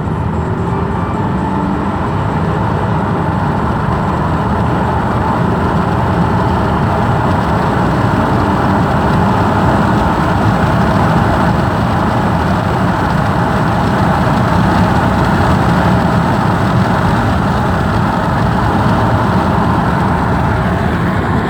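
Audi 2.8 FSI V6 engine running steadily; this is the engine the owner says knocks in the middle of the right cylinder head and stalls.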